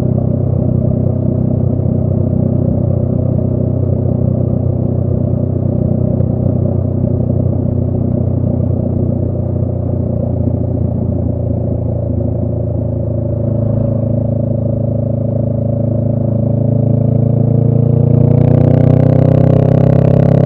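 2018 Honda Rebel 500's parallel-twin engine running through a Radiant Cycles Shorty GP slip-on exhaust at a steady cruise. About two-thirds of the way in the revs begin to climb and the sound grows louder as the bike accelerates.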